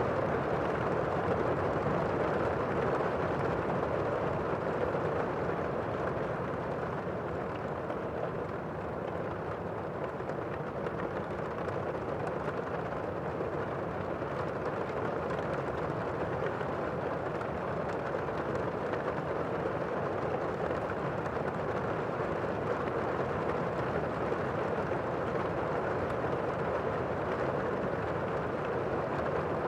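Steady rain falling, an even wash of sound with no thunder or breaks.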